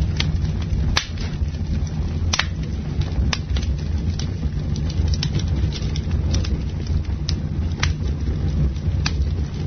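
Campfire crackling, with irregular sharp pops from the burning wood over a steady low rumble.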